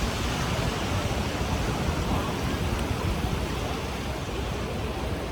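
Ocean surf washing steadily on a sandy beach, mixed with a low rumble of wind on the microphone.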